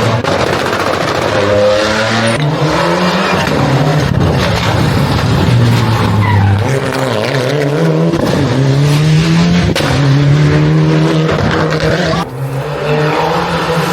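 Rally cars at full attack on a special stage: engines revving hard, pitch climbing and dropping through gear changes and braking, with tyre squeal in the corners. The sound changes abruptly several times as it cuts from one car to the next.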